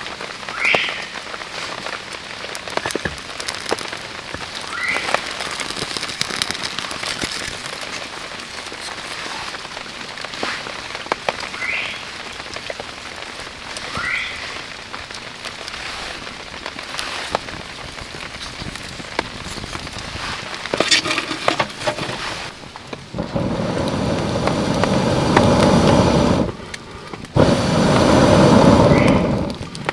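Steady rain with many scattered drips ticking, and a few short rising chirps every several seconds. About 23 seconds in, a louder, denser rushing noise takes over; it breaks off briefly and then resumes.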